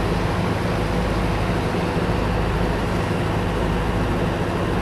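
Large diesel generator set running steadily: a low, even hum under a loud hiss.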